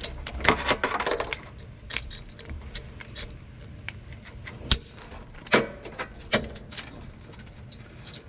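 Stainless safety wire and safety-wire pliers being worked by hand on an aircraft oil filter: scattered metallic clicks and light jingling, with a handful of sharper clicks spread through.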